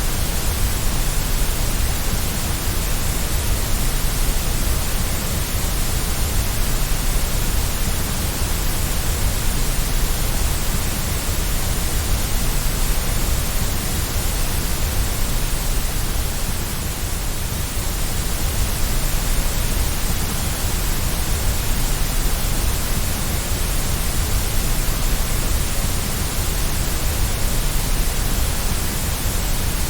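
Steady white noise: an even, unbroken hiss with a heavy low rumble, played as a baby sleep aid.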